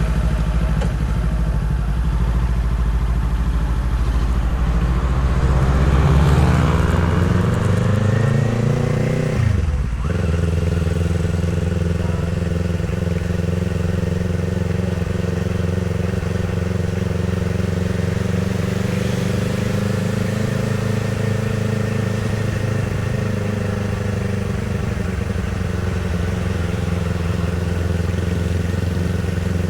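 Kawasaki Z500's parallel-twin engine under way. Its revs climb for a few seconds, drop sharply about ten seconds in, then settle into a steady cruise with small rises and falls.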